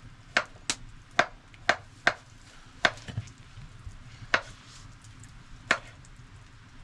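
A blade chopping into wood: about nine sharp strikes, coming quickly at first and then more sparsely.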